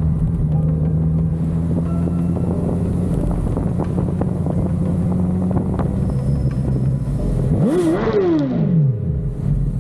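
Motorcycle engine running at a steady speed. About eight seconds in it revs up quickly and falls back.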